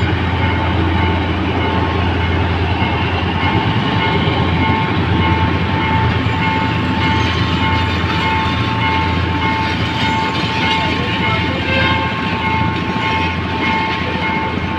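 A Sri Lanka Railways diesel-hauled passenger train passing close by, locomotive then coaches, with a low rumble and a steady high-pitched ringing tone held over it throughout.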